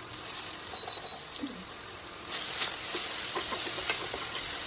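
Onion paste frying in hot ghee and mustard oil: a steady sizzle with small crackles and spatters, growing louder a little over two seconds in.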